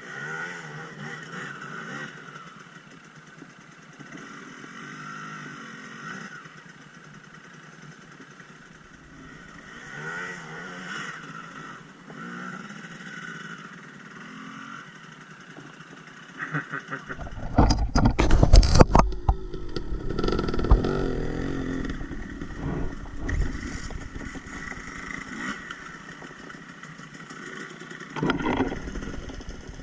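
Dirt bike engine running and revving unevenly. A loud burst of noise comes about seventeen seconds in, then the engine runs louder.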